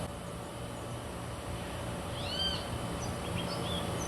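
Tropical bird calls from a Costa Rican nature soundscape: a call that rises and falls about two seconds in, then a few short chirps, over a steady low background hum.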